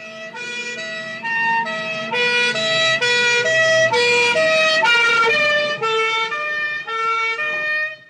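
Two-tone emergency vehicle siren switching back and forth between a high and a low note a little more than twice a second, over a low vehicle rumble. It grows louder over the first couple of seconds and cuts off near the end.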